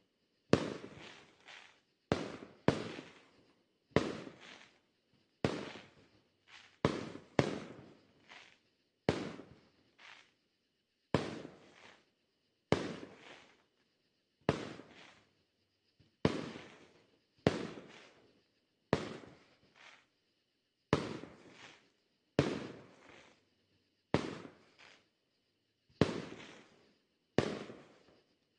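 Fireworks display: a steady run of firework bursts, about twenty booms in close succession, roughly one a second and sometimes two back to back, each with a sharp crack that dies away over about a second.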